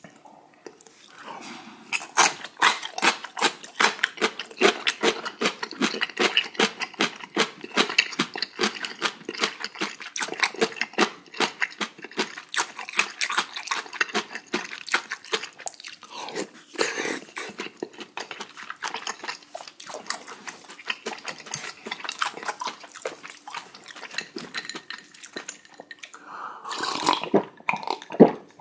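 Close-miked eating: rapid wet chewing, lip-smacking and mouth clicks as a mouthful of rice mixed with spicy beef small-intestine hot pot is eaten. Near the end come a few gulps of water from a glass.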